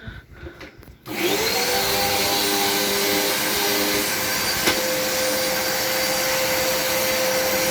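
Hoover upright vacuum cleaner switched on about a second in, its motor whining up to speed and then running steadily, with a brief click near the middle.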